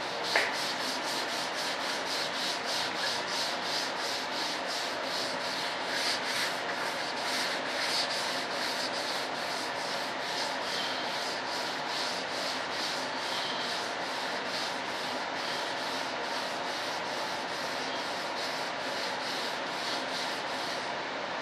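Sandpaper on a sanding block rubbed by hand over a filled model-jet part in steady back-and-forth strokes, about two to three a second, to sand it flat and smooth. A single sharp knock just after the start.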